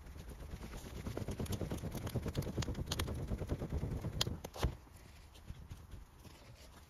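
Small campfire of damp wood crackling quickly and densely for about four seconds, with several sharp snaps and pops, then dying down to a faint crackle.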